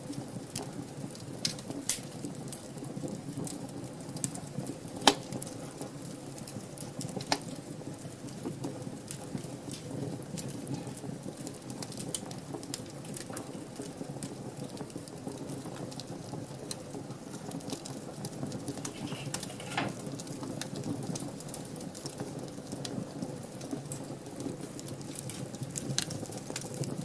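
Wood fire burning in a fireplace: a steady crackle with sharp pops scattered through, the loudest about five seconds in.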